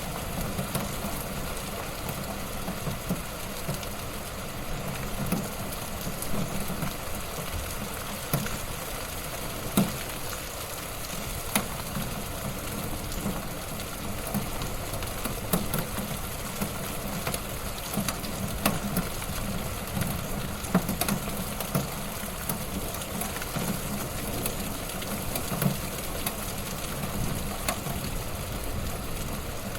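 Wood fire burning in a fireplace, crackling steadily with frequent sharp pops.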